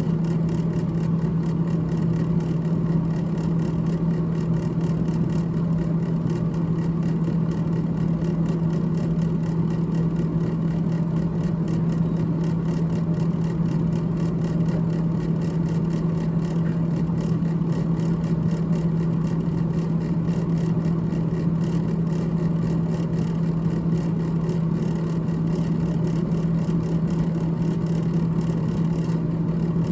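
Freezer fan in a GE GTH18XCTZRBB refrigerator running continuously: a steady hum with an even whir, unchanging throughout.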